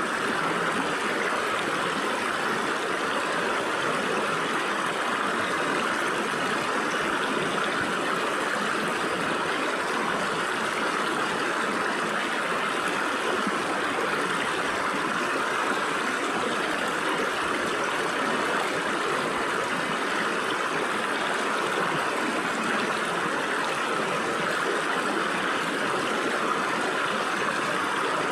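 Stream water running and splashing through gaps between rocks, a steady rushing with no change throughout.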